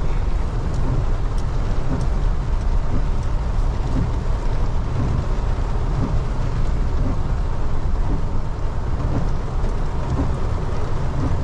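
Heavy rain falling on a Mahindra Bolero with its engine running: a steady rush of rain over a constant low rumble.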